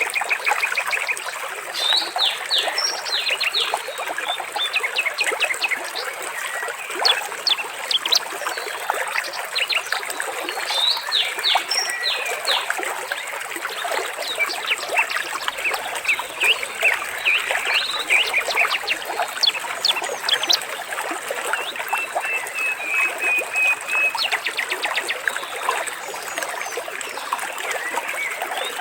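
Water trickling and babbling steadily, with birds chirping in short calls over it and a brief trill a little past two-thirds of the way through.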